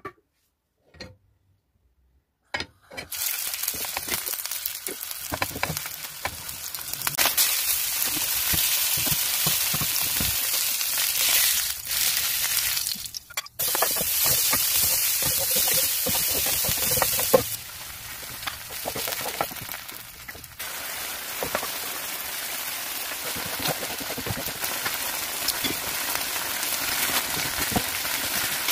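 Food frying in oil in a frying pan: a steady sizzle, first from chopped red onion and later from tomato sauce cooking around the fish, with small scrapes and taps of a wooden spoon stirring. The sizzle starts about three seconds in after a few faint clicks, and grows quieter for a few seconds about two-thirds of the way through.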